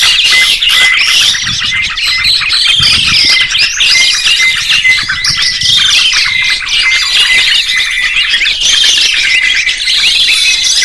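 Songbirds chirping and singing without a break: many overlapping fast whistles, trills and rapid chirps.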